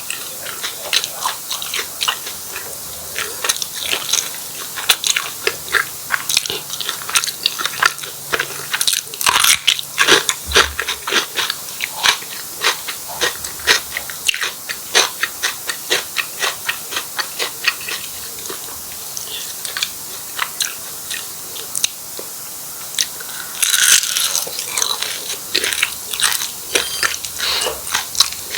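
Close-miked ASMR eating of martabak telur: crunchy bites into the fried pastry crust and steady chewing, a fast irregular patter of crackly clicks. A louder, denser run of crunching comes near the end.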